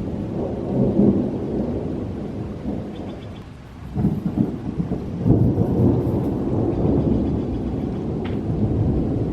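Thunder rumbling in long, low rolls. It eases off about three and a half seconds in and swells again about four seconds in.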